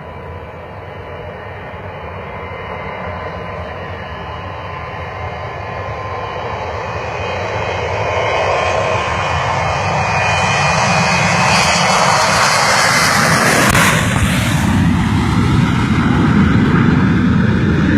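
Boeing 727 jet engines running at high power, growing steadily louder as the aircraft closes in and passes close by about fourteen seconds in, then carrying on as a deeper roar as it moves away.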